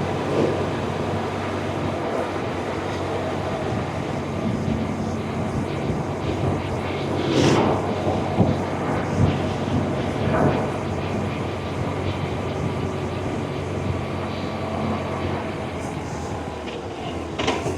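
BMW R1100RT's boxer twin engine running steadily under way, with wind noise rushing over the microphone and a few brief gusts about halfway through.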